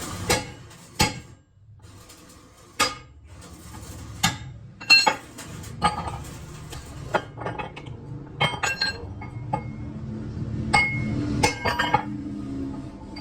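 Metal parts and hand tools clinking and knocking against each other: irregular sharp strikes, each with a short metallic ring, a dozen or more spread unevenly.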